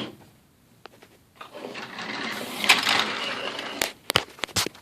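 Plastic scale farm model being moved by hand: a rolling, scraping stretch as it slides across the surface, then several sharp plastic clicks and knocks near the end as it is set down.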